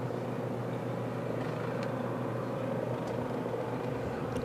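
An engine running steadily, with a level drone, and a few faint short scrapes or ticks over it.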